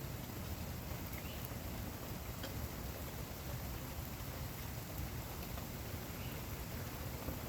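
Steady rain falling, with scattered single drops ticking.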